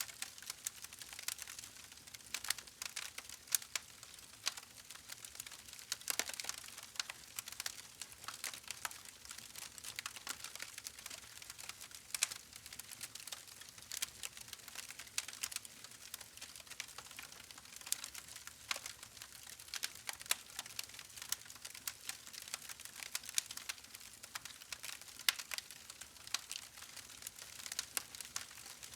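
Campfire crackling: a dense, irregular stream of sharp pops and snaps from the burning wood, over a faint steady hiss.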